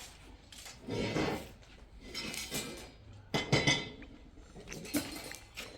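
Metal objects clanking and clattering against each other in several separate bursts, the sharpest knocks a little past halfway.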